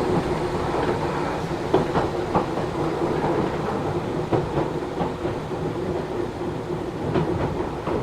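Matsumoto Electric Railway 3000 series electric train heard from inside the car while running: a steady rumble and hum with occasional irregular knocks as the wheels pass rail joints.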